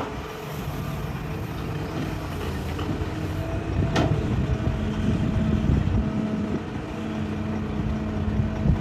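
Hitachi excavator's diesel engine running steadily under working load, with a sharp knock about four seconds in, typical of the bucket striking rock.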